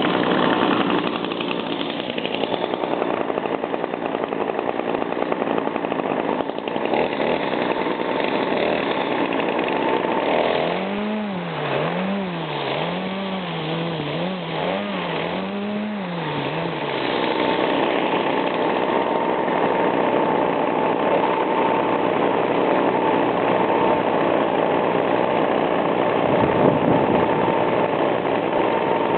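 Small two-stroke engines of Echo handheld yard tools running. Around the middle the throttle is blipped several times, the pitch rising and falling, and then the engine is held at a steady high speed with a constant whine.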